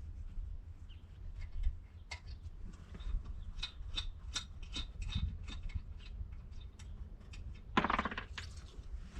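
Scattered clicks and light metallic clinks of hand tools and parts being handled while the engine is bolted onto its mount, with a longer, louder rasping scrape near the end.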